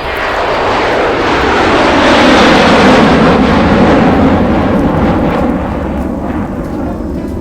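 A loud rushing rumble that swells over about two seconds and slowly fades, over a steady low beat.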